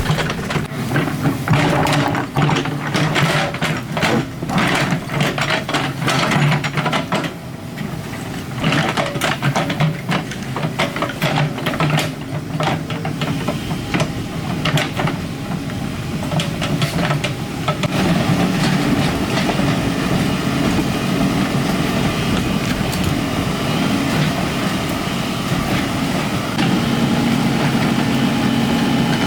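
Excavator engine running steadily, with frequent clanks and scrapes of the bucket and rock for the first half, then settling into a steadier engine sound for the rest.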